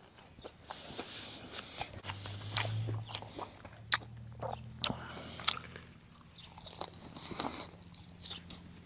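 A person chewing crunchy breakfast food, crispy bacon and hash browns, close to the microphone, with sharp crackling crunches coming every second or so.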